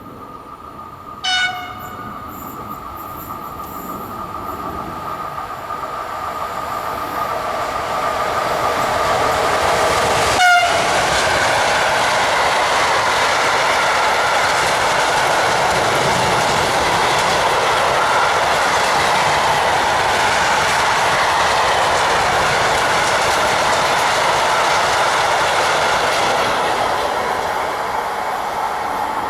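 E656 electric locomotive giving a short horn blast as its freight train approaches, then the train of loaded Hirrs wagons passing: wheel and rail noise building, a brief sharp sound about ten seconds in, then a long loud steady rush of wagons with clickety-clack, easing slightly near the end.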